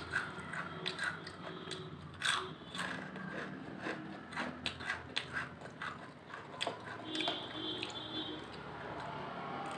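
Close-up crunching of Lay's potato chips being bitten and chewed: a quick run of sharp, crisp cracks that thins out after about six seconds.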